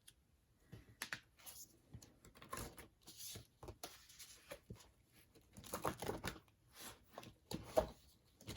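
Paper and plastic album packaging and photo cards being handled: irregular rustling and crinkling in short bursts, with a sharper handling sound near the end.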